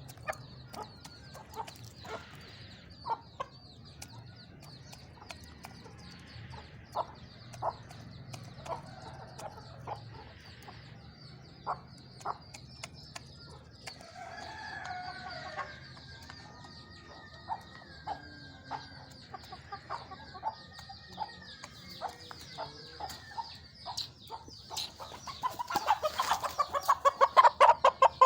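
Birds calling: scattered short calls over a steady high chirring, then a loud, rapid run of calls near the end.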